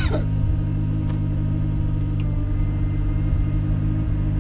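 Skoda Felicia rally car's engine idling steadily while the car stands still, heard from inside the cabin. A faint high steady tone comes in about halfway through.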